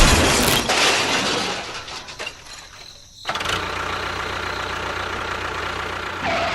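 A loud thump, then a noisy rush that fades out by about three seconds in. After that an engine-like motor runs steadily, apparently from one of the miniature DIY construction vehicles.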